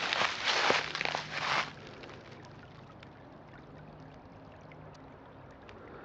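Footsteps crunching through dry leaves and brush, stopping about a second and a half in, then a creek trickling faintly.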